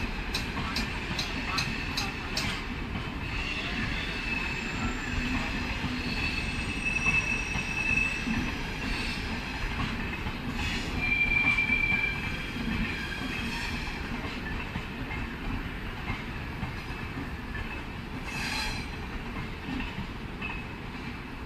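Shatabdi Express AC chair car coaches rolling past on the track, with a continuous rumble of wheels and running gear. A run of sharp regular clicks, about three a second, comes in the first couple of seconds, and a high squeal rises now and then, loudest around halfway through.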